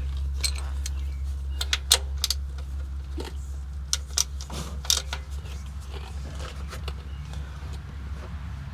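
Irregular metallic clicks and clinks of a wrench or socket on the oil drain plug as it is threaded in and tightened, over a steady low hum.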